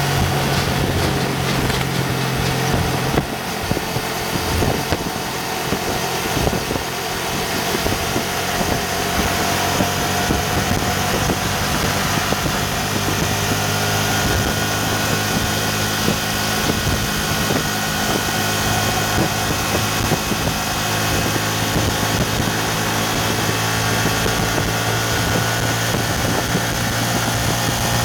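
Yamaha FZ150i's single-cylinder 150 cc engine running hard under load as the motorcycle accelerates, its pitch rising slowly as revs climb from about 6,500 to 8,000 rpm. Wind noise rushes over the microphone throughout.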